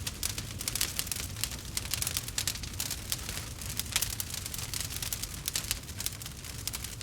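Campfire crackling: a dense run of sharp pops and snaps over a low, steady rumble of burning wood.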